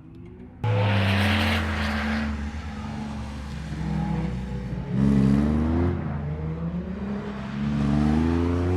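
Drift car's engine revving hard, its pitch rising and falling as the throttle is worked, with tyre screech. It cuts in abruptly under a second in and is loudest around the middle and near the end.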